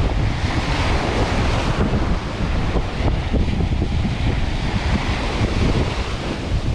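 Surf washing onto a sandy beach, with strong wind buffeting the microphone in a steady low rumble.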